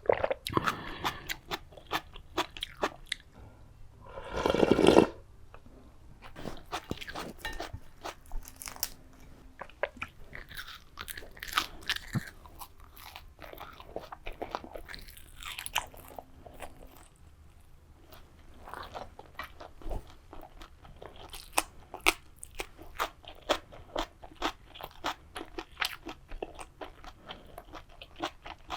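Close-miked crunching, biting and chewing of crisp food, a steady run of sharp crunches, with one louder noise about a second long around four seconds in.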